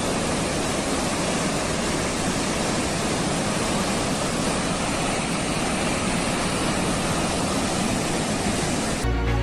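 Steady rush of water, an even noise with no separate events, cut off abruptly near the end by music.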